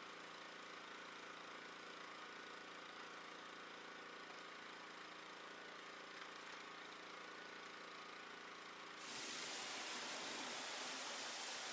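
A pressure washer runs with a steady mechanical hum. About nine seconds in, a louder, even hiss of water spray starts suddenly and covers the hum.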